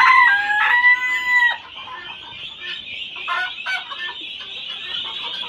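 A rooster crowing: one long held call that ends about a second and a half in. A few short clucks follow, over a steady high-pitched background din.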